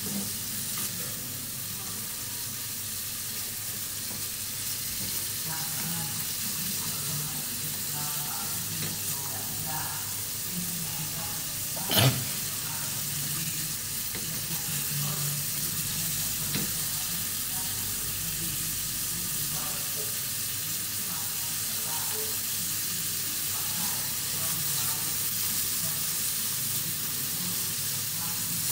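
Duck, lemongrass and chillies sizzling as they are stir-fried over a high gas flame in a frying pan, the food stirred and scraped around the pan. One sharp knock about twelve seconds in stands out above the steady sizzle.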